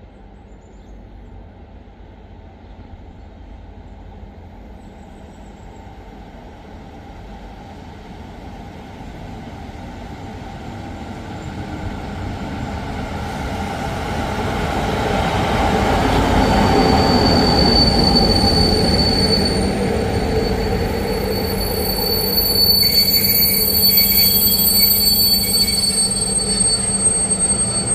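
A train approaching and growing steadily louder until about halfway through, then running close by, with high-pitched steel wheel squeal that gets stronger near the end.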